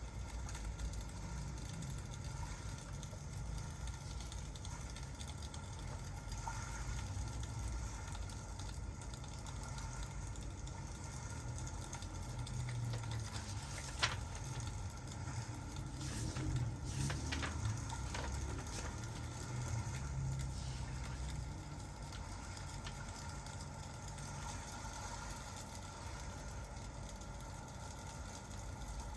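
Crackling fireplace ambience: a steady low rumble with sparse crackles and pops, one sharp pop about halfway through and a few more soon after.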